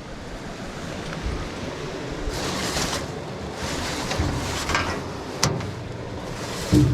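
Wind buffeting the microphone in rough, uneven gusts, with a single sharp knock about two thirds of the way through.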